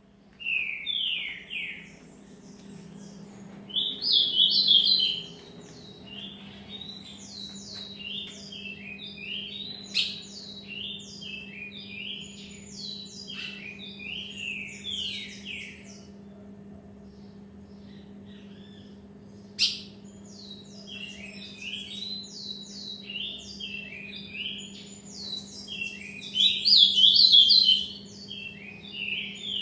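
Caged songbirds singing in rapid runs of short, high, falling notes, with louder bursts near the start, about four seconds in and near the end, over a steady low hum. A single sharp click comes about two-thirds of the way through.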